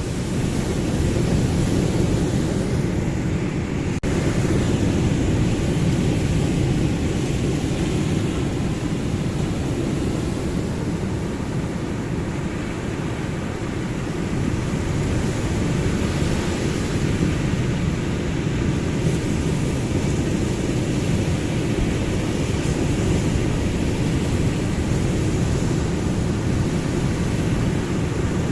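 Ocean surf as a deep, steady rumble of breaking waves, slowly swelling and easing, with a brief break about four seconds in.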